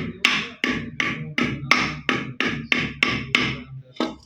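A rapid, regular series of sharp knocks, about three strikes a second, that stops near the end.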